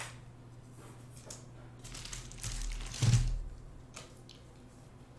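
Trading cards and their packaging being handled on a table: a sharp click at the start, rustling and crinkling, and a louder bump about three seconds in.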